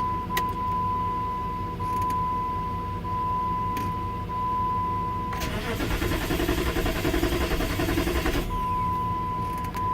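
A steady high-pitched electronic tone sounds, and about five seconds in it gives way to the 2002 Jeep Grand Cherokee's 4.7 V8 being cranked by the starter for about three seconds without catching; the tone comes back after the cranking stops. The engine cranks but won't start because the fuel pump isn't being run, a fault the owner traced to a bad PCM.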